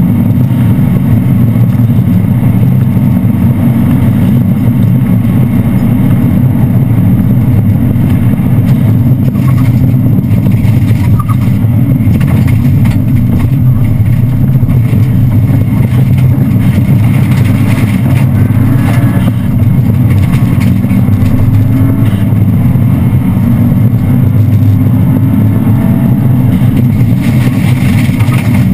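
Subaru rally car's engine running hard at speed, loud and continuous, heard from inside the cabin.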